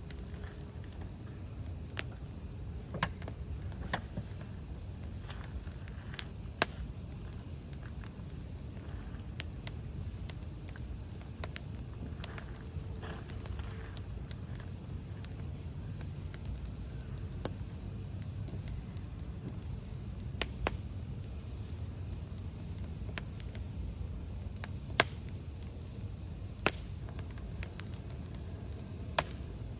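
Crickets chirping in a steady pulsing trill over the low rumble of a wood campfire. Scattered sharp pops and crackles of burning firewood come through, several of them loud.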